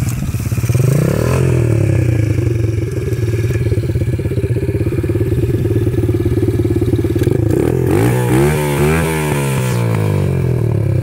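Dirt bike engine running steadily while ridden slowly, with a small rise in pitch about a second in and several quick rises and falls in pitch about eight seconds in.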